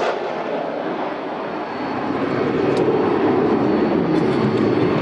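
SEPECAT Jaguar jet with its twin Rolls-Royce Turbomeca Adour turbofans running, a steady rushing jet noise that grows louder about two seconds in.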